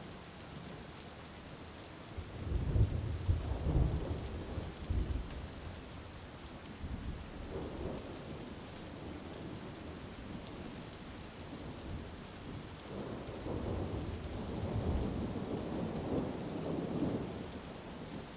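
Heavy rain falling steadily, with two long rolls of thunder: a louder one about two seconds in and a second one building near the end.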